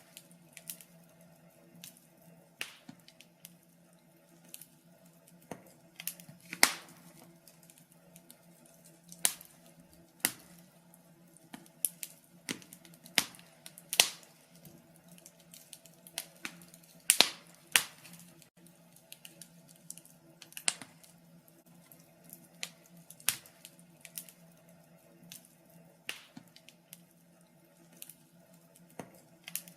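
Wood fire crackling in a fireplace: sharp, irregular pops and snaps, a few every couple of seconds, some much louder than others, over a faint steady low hum.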